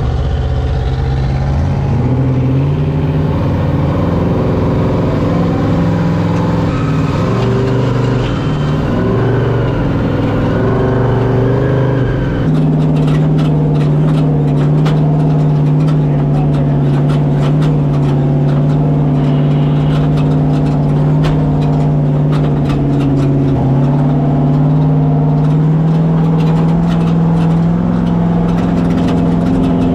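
Off-road race truck's engine running under throttle, heard from inside the cab, its pitch rising and falling with the revs. From about twelve seconds in, the engine note is steadier and the truck rattles and knocks over rough dirt track.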